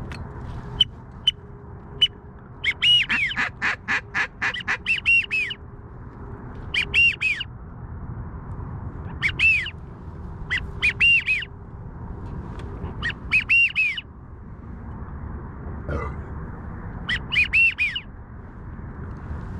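Wigeon whistles: high, rising-and-falling whistled notes in bursts, a quick run of them about three seconds in and then groups every couple of seconds, over a low steady rumble.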